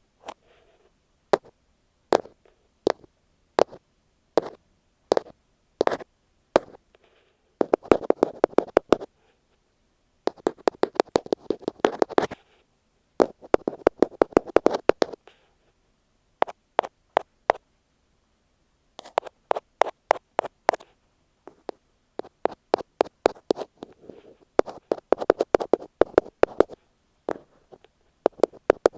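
Tapping on an earphone microphone, ASMR-style. Single taps about a second apart at first, then quick runs of taps in bursts of a second or two with short pauses between them.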